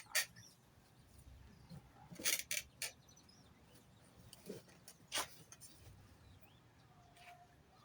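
Birds: a few faint chirps among scattered short, sharp clicks and taps.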